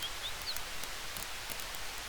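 Campfire crackling, with frequent sharp pops over a steady hiss. Short high chirps come through several times.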